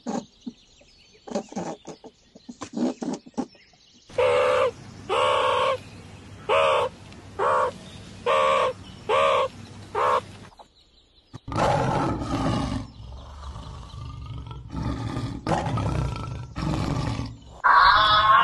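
A string of different animal calls: a few short chirps, then a run of about nine evenly spaced pitched calls, then rougher, noisy roar-like calls.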